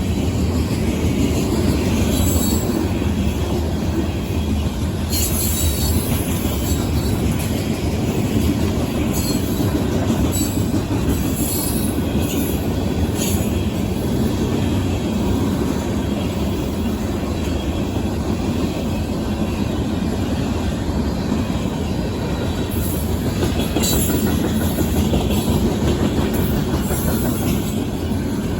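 Manifest freight train rolling past at a grade crossing: a steady rumble of steel wheels on rail, with brief high-pitched wheel squeals and clicks several times.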